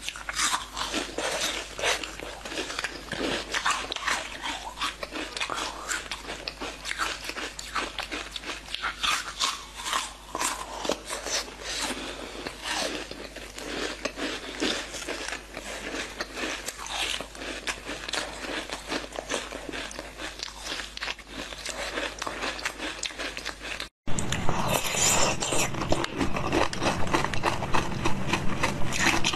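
Close-up biting, crunching and chewing of frozen chocolate: a dense run of small crisp cracks and mouth sounds. Near the end it cuts off abruptly, and a louder, different sound follows.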